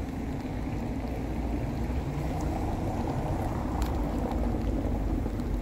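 Mercedes-AMG SL 63's 4.0-litre twin-turbo V8 idling with a steady low rumble.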